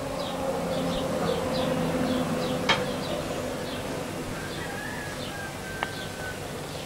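Small bird chirping over and over: short, high, falling chirps about two a second, over a steady low hum. A sharp click about two and a half seconds in is the loudest moment, with a smaller click near six seconds.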